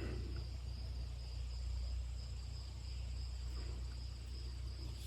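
Crickets chirring in a steady, unbroken high drone, over a low steady rumble.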